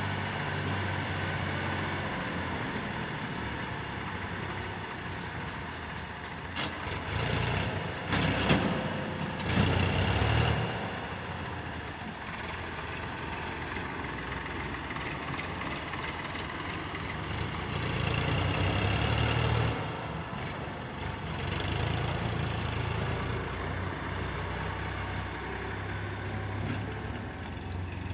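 Heavy diesel engine running steadily. It grows louder twice, and the first time a few sharp knocks ring out with it, about seven to ten seconds in.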